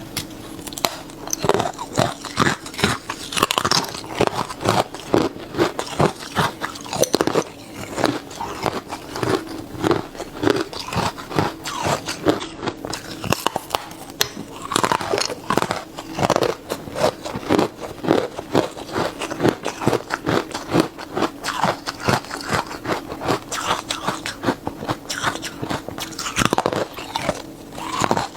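Close-miked biting and chewing of hard carbonated ice: continuous, irregular crunching and cracking as the ice is bitten and ground between the teeth.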